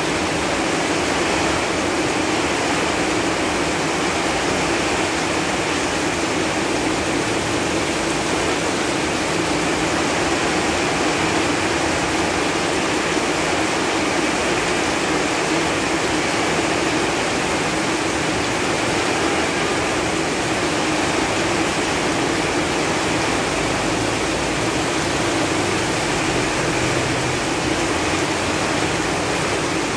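Steady rain falling on leaves, a dense even hiss of many drops.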